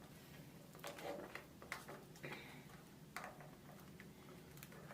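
Faint, scattered clicks and small crackles of someone eating king crab, handling and breaking into the shell, about six separate ticks a second or so apart.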